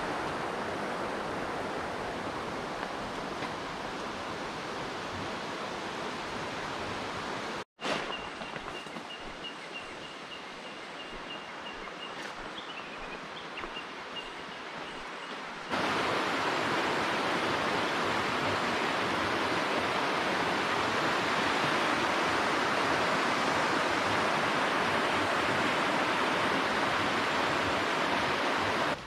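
Mountain stream rushing over rocks: a steady hiss of water, cut abruptly twice and louder in the last part. A thin, steady high tone sounds faintly over the water through the middle stretch.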